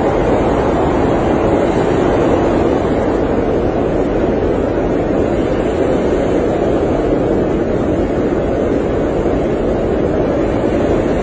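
Blizzard wind blowing steadily: a dense, unbroken rush of noise, strongest in the lower middle range, with a low rumble beneath and no gusts or pauses.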